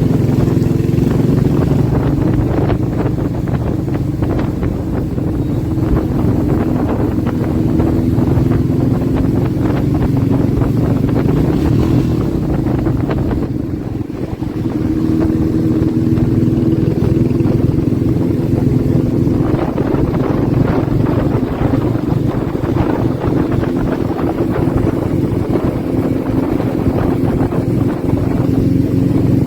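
Motorcycle engine running steadily under way, with wind buffeting the microphone. It eases off briefly about halfway through, then picks up again.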